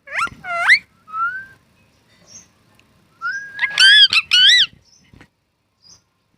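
A pet green parrot whistling and calling: a few quick rising calls at the start, then a long held note about three seconds in that breaks into several short up-and-down calls.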